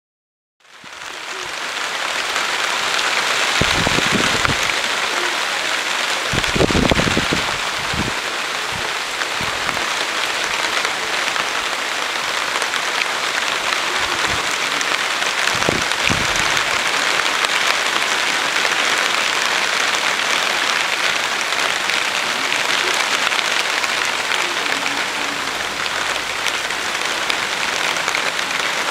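Steady, dense rain falling, fading in just after the start and holding an even hiss throughout, with a few brief low rumbles in the first half.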